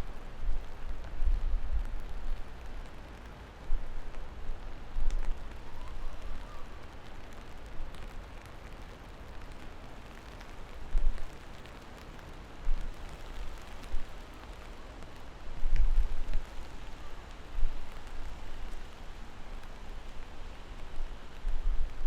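Steady rain falling, an even hiss with scattered drop ticks, under low rumbling swells that come and go every few seconds.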